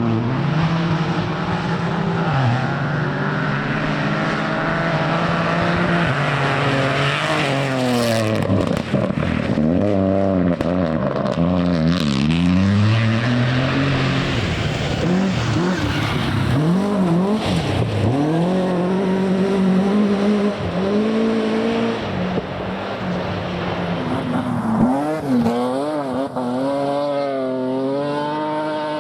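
Rally car engines revved hard through a corner, pitch climbing and dropping again and again with gear changes and lifts off the throttle, over tyre and gravel noise. Near the end another engine winds up through the gears.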